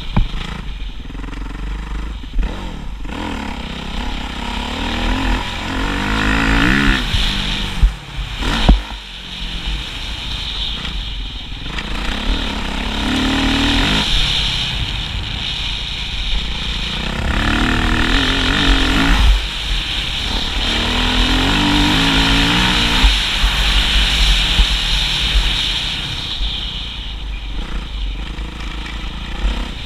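Motocross bike engines revving up and falling back again and again as they ride the track, each rise in pitch followed by a drop. There is a sharp knock about nine seconds in.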